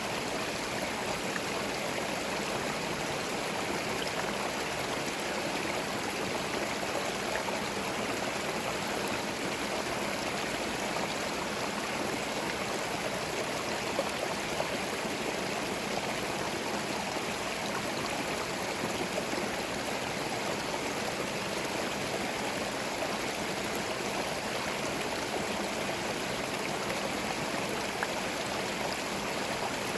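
Small forest stream running over stones, a steady continuous babbling and trickling of water.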